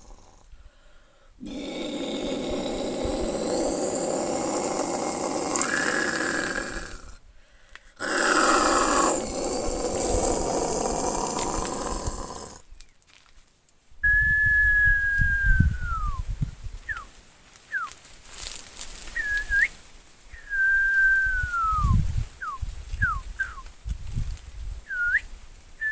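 A person imitating animal calls with the voice: two long, rough, noisy calls, then from about halfway a string of high whistled cries that each slide downward in pitch.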